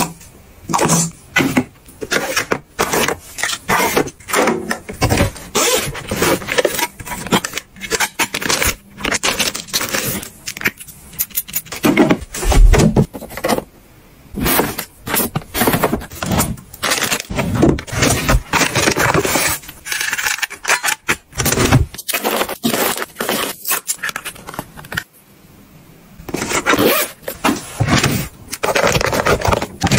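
Packets and containers being handled and set in place: irregular crinkles, clicks, taps and scrapes of plastic packaging, with a couple of short pauses.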